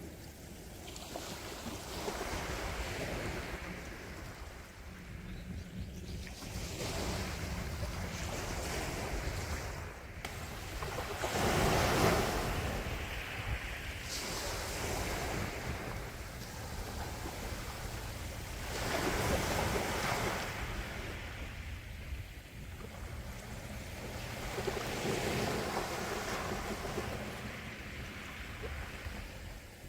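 Sea waves breaking and washing on a shore, the surf swelling and fading every few seconds, with the strongest breaks about twelve and twenty seconds in, over a low steady rumble.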